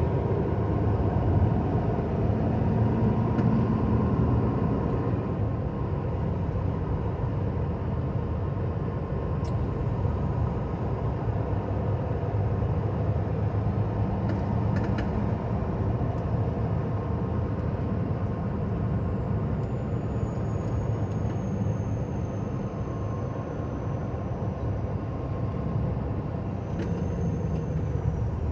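Tractor-trailer truck driving on a highway: a steady, even rumble of engine and road noise.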